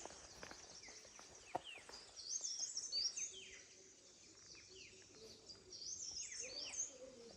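Birds singing outdoors: a high, quick twittering phrase repeats three times, mixed with short falling chirps.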